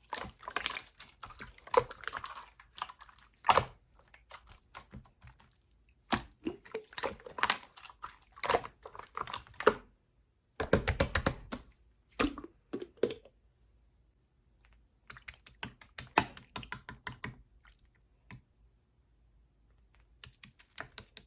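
Clear pink slime being squeezed and stretched by hand, making runs of sticky clicks and pops in bursts, with two silent pauses in the second half.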